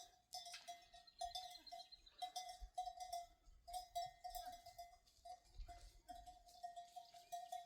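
Faint, irregular jangling of livestock bells, several bells struck over and over as the animals move.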